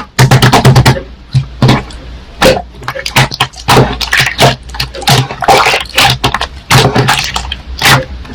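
Slime being squeezed and pressed by hand, giving a fast, irregular run of sticky popping and squelching clicks.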